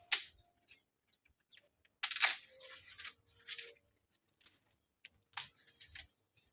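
Small dry firewood sticks being pulled out and handled, with a few bouts of sharp crackling and snapping: one about the start, a longer one about two seconds in, and another near the end.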